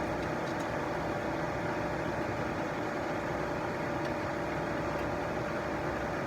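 Steady mechanical hum with a constant mid-pitched tone, unchanging throughout.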